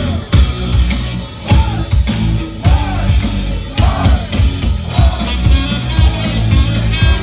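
A rock band playing loud: drums keep a steady beat under bass and guitar, with a little singing.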